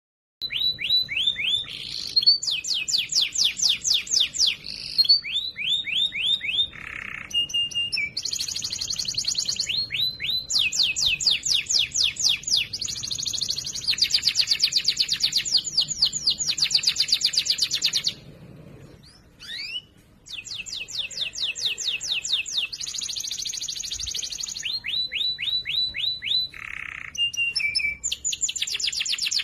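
Domestic canary singing loudly and clearly: a long song made of phrases of rapid trills, each a fast run of repeated high notes, changing from one trill to the next every second or two. There is a short break about two-thirds through before the trilling resumes.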